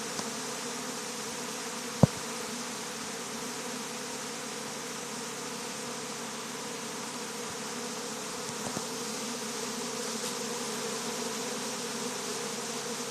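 Honey bee swarm in flight, a steady dense hum of many bees buzzing as the swarm gathers into a cluster. A single sharp click about two seconds in.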